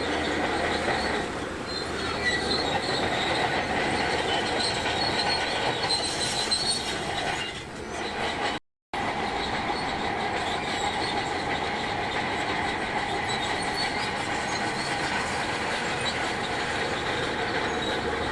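Crawler bulldozer at work: its diesel engine running while the steel tracks squeal and clank. The sound breaks off in a sudden short silence about halfway through, then carries on.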